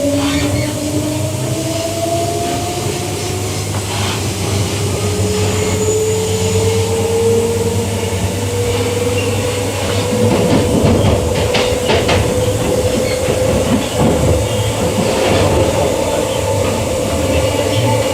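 Queensland Rail EMU electric train heard from inside the carriage as it pulls away, its traction motors whining in a pitch that rises over the first several seconds and then levels off, over a steady low hum. A run of wheel clacks over the rail joints comes about ten to fourteen seconds in.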